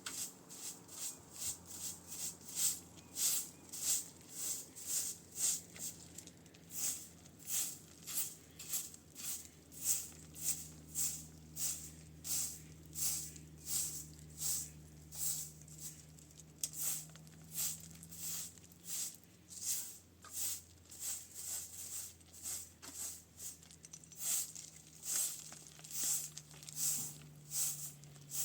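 Rhythmic scraping or brushing strokes, a little under two a second, kept up steadily, over a faint steady low hum.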